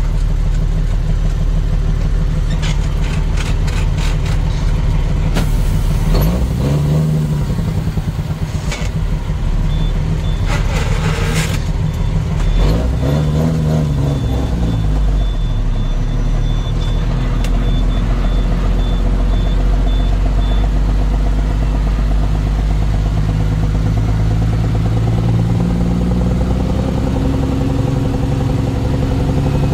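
Heavy truck engine running steadily, revving up and back down twice, about a quarter and half way through. A rapid high beeping sounds for several seconds in the middle.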